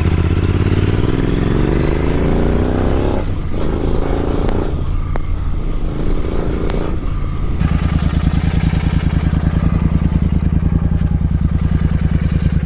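Kawasaki Z900 inline-four motorcycle engine through an SC Project aftermarket exhaust, accelerating hard. The revs climb and break off briefly twice at gear changes. About seven and a half seconds in, the engine settles into a steadier, lower, pulsing exhaust note.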